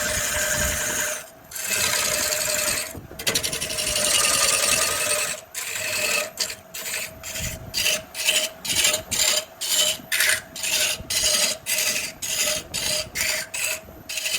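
Wood lathe running with a steady hum while a tool rubs against the spinning wood with a rasping sound. About halfway through, the rubbing turns into regular strokes, about two or three a second.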